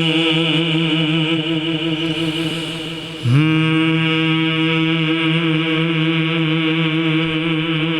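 A man chanting a naat unaccompanied, holding long notes that waver in pitch, with a short break about three seconds in before he slides up into a new held note.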